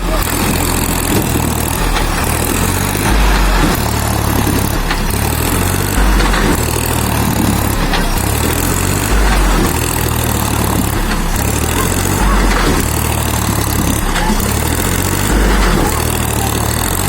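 Solis tractor's diesel engine running steadily, a low rumble that swells every few seconds.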